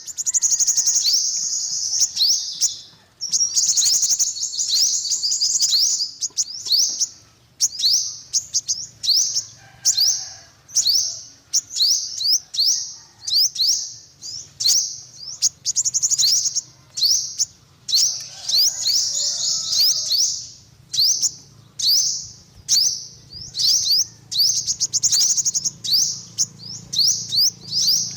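Sunbird singing: a rapid run of sharp, high-pitched chirps that thickens into fast trills several times.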